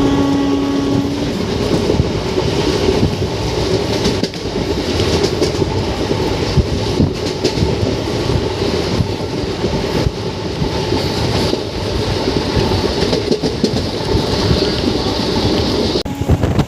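Matsyagandha Express passenger train running at speed: a loud, steady rumble and rattle of the coach and wheels on the track. A short steady tone sounds in the first second or so.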